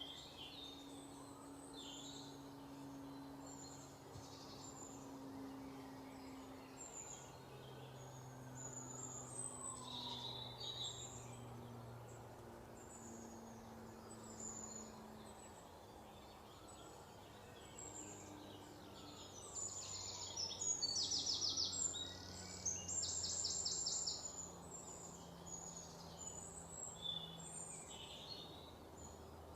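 Small birds chirping and singing, with two loud, rapid rattling trills a little over two-thirds of the way through. A faint low hum runs underneath.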